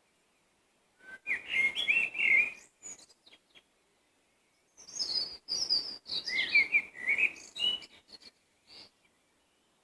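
A songbird singing two phrases of quick, sliding whistled notes, the first about a second in and the second about five seconds in, with pauses between them.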